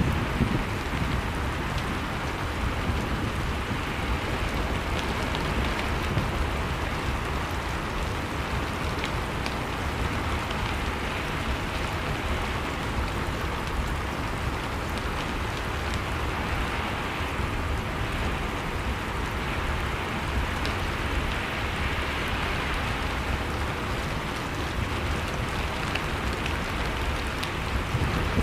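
Steady rushing noise of blizzard wind, with a few faint crackles from a wood fire.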